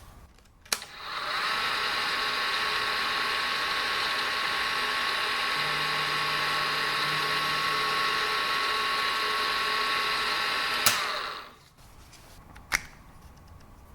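Aciera F1 milling machine switched on with a click, its spindle motor running with a steady whine for about ten seconds, then switched off and spinning down. A single click follows.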